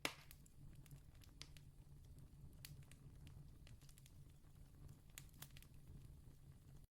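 Faint campfire crackle: scattered small pops and snaps over a low, steady rumble, with one louder pop at the start. The sound cuts out briefly at the very end.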